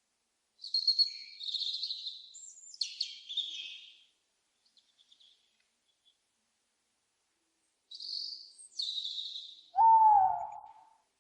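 Owl calls: two bouts of high, hissy screeches, then near the end a louder single hoot lasting about a second.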